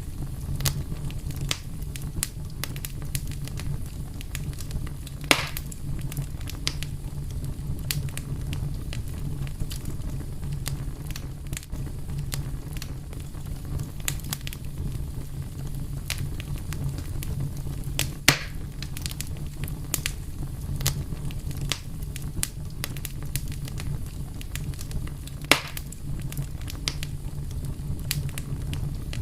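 Wood fire burning steadily with a low rumble and continual crackling, punctuated by a few louder pops.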